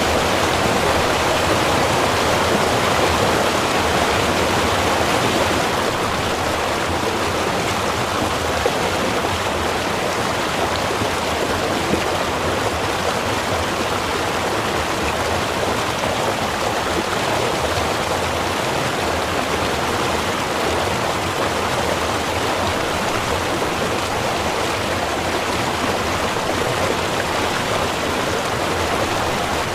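Small river running: a steady, unbroken rush of flowing water.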